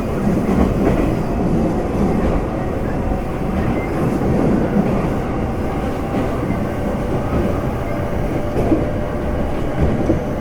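Semboku Rapid Railway 5000 series electric train heard from inside a car while running at steady speed. The rumble of wheels on rail is steady, with a faint hum of level tones and a couple of sharp rail-joint knocks near the end.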